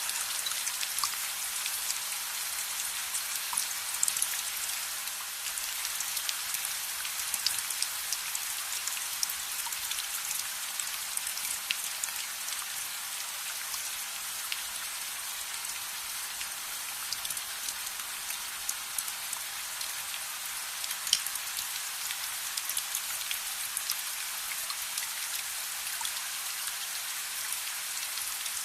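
Steady rain: an even hiss with many small sharp drop ticks scattered through it and a few louder pops.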